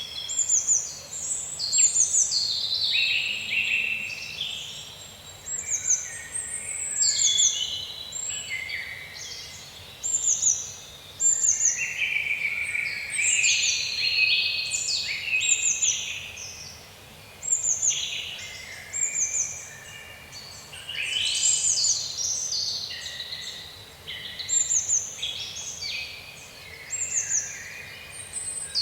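Several songbirds singing in a woodland dawn-chorus mix, with short phrases of high, falling notes repeated every second or two over a faint steady background hiss.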